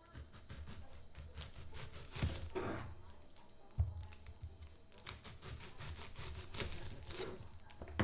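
Kitchen food-prep handling: an irregular run of small clicks and crackly rustles with a few soft knocks, and two longer rustling swells.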